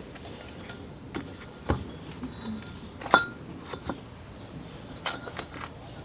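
Small metal engine parts and tools being handled: scattered light clinks and knocks, with one short ringing clink about three seconds in.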